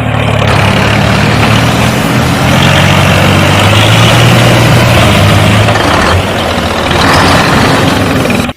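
A motor running steadily and loudly, with a low hum under a dense noise that lifts slightly about two and a half seconds in and eases off about six seconds in.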